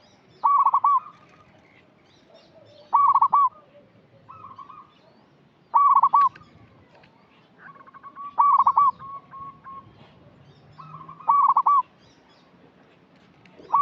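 Male zebra dove (perkutut) cooing: five loud phrases of quick, rolling staccato notes, repeated about every three seconds, with softer coos between them.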